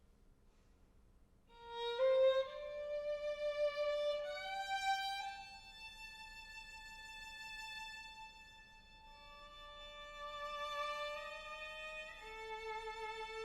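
String quartet music: after a hush of about a second and a half, bowed strings come in on long held notes in the violins' register, several at once, sliding upward into new pitches now and then.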